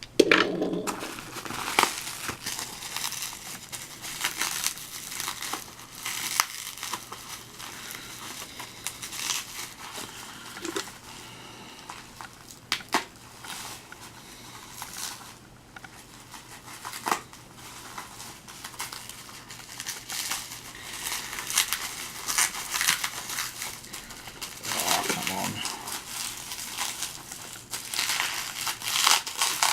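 Plastic packaging crinkling and rustling as diecast model cars are unwrapped by hand, with a few sharp clicks.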